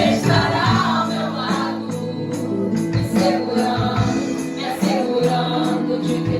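Live Christian worship band playing: keyboard, electric guitar and drums, with some singing over the top.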